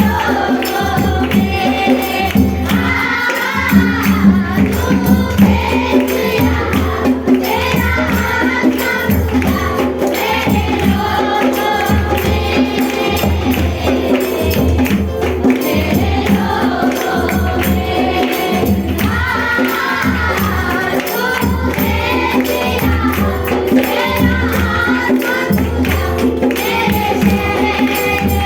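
A congregation singing a Christian worship song together, with a tambourine shaken and struck in a steady beat throughout.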